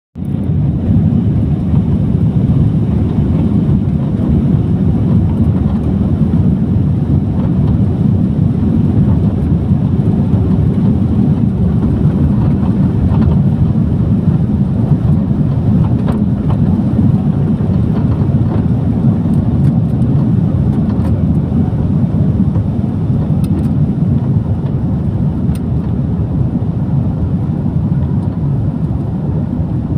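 Steady, loud low rumble of a Garuda Indonesia jet airliner's engines and airflow heard inside the passenger cabin.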